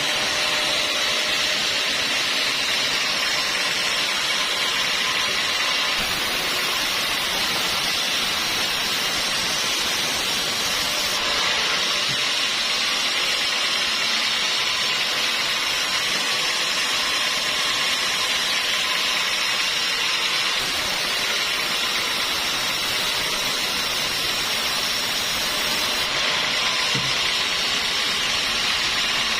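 Sawmill saw running steadily, a loud, even noise with no breaks or changes in pitch.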